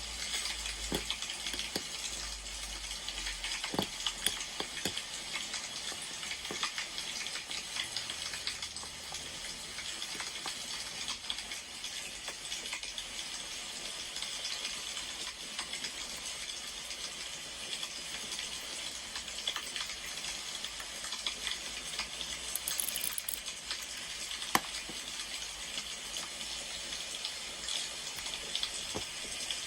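Crackling of a burning wood fire: a steady hiss dense with small pops, with a few sharper cracks.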